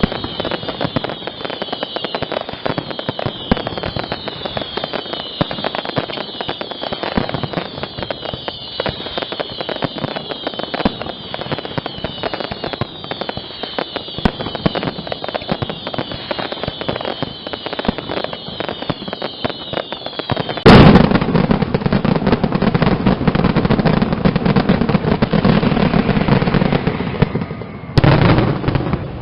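Castillo fireworks display: dense crackling with many falling whistles overlapping several times a second, then about 21 seconds in a sudden, much louder continuous barrage of bangs, which dips briefly near the end and comes back.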